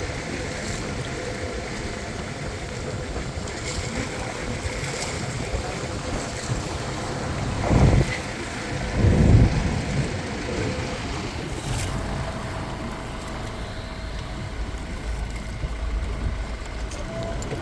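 Tour motorboat running over the sea, with water rushing past the hull and wind on the microphone; two louder surges of water or wind about eight and nine seconds in.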